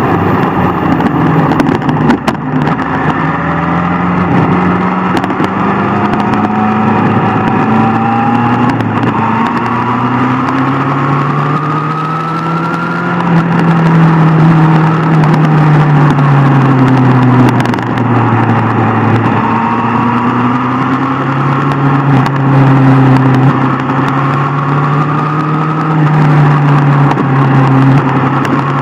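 Inline-four sport motorcycle engine running hard at road speed. Its pitch climbs and drops several times as the revs change, over a steady rush of riding noise.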